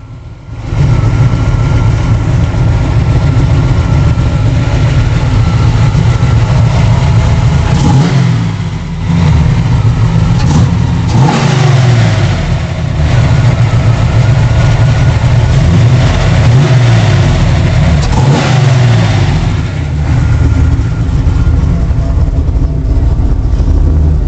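1997 Chevrolet Camaro engine running loudly and revved several times, its pitch climbing and falling back about eight seconds in, around eleven seconds, and again around eighteen seconds.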